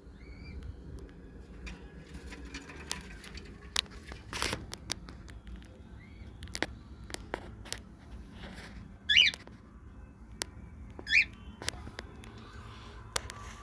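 Cockatiel giving two short, loud chirps about nine and eleven seconds in. Scattered light clicks and taps come between them.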